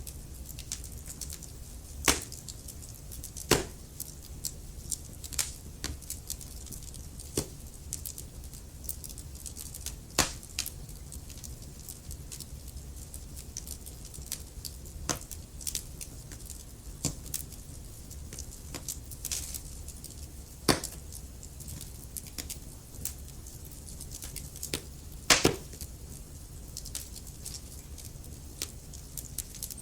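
Wood fire crackling in a fireplace: irregular sharp pops and snaps over a low steady rumble, with a few louder pops scattered through.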